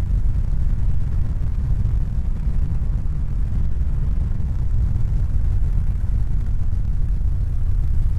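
Steady deep rumbling noise with no distinct events, its energy concentrated in the low bass.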